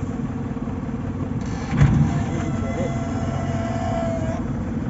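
JCB 3DX backhoe loader's engine running steadily, with a single clunk about two seconds in.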